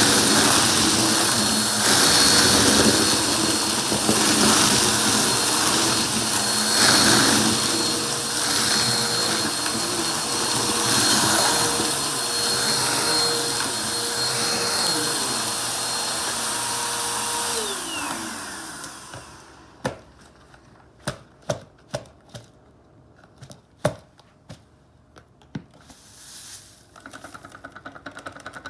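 Vacuum cleaner motor running steadily with a high whine, then switched off about 18 seconds in, its pitch falling as it winds down. After that come scattered clicks and knocks of handling.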